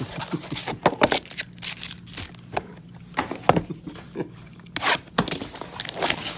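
Trading-card packaging being torn open and the cards handled: a run of irregular tearing, crinkling and scraping sounds over a faint steady low hum.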